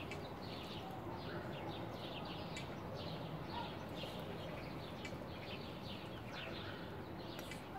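Quiet outdoor background with small birds chirping over and over, short high chirps scattered all through.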